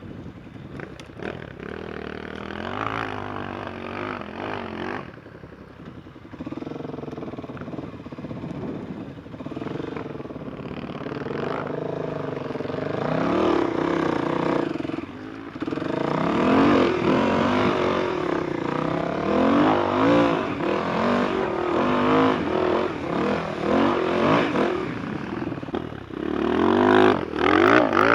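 Enduro motorcycle engine ridden off-road, its revs rising and falling again and again with the throttle; the running gets louder and busier about halfway through, with quick revs near the end.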